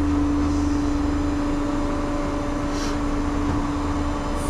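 Tow truck's engine idling, a steady low rumble under an even hum.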